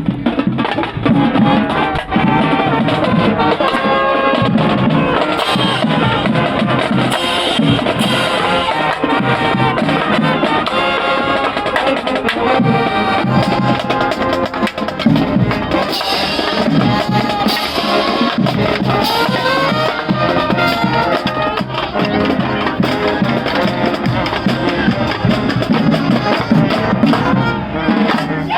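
High school marching band playing a tune in the stands: a pitched melody over a steady drum beat.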